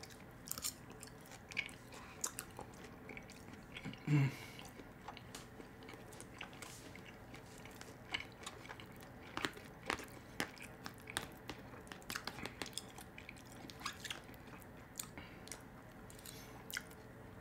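Chewing and small wet mouth clicks from a person eating a meal of steak, mashed potatoes and vegetables, with a short hummed "mm" about four seconds in.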